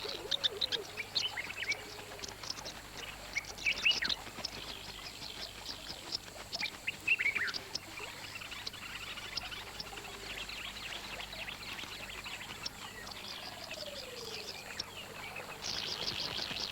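Small birds calling: short, high-pitched chirps in scattered flurries, thicker near the end, over faint outdoor ambience.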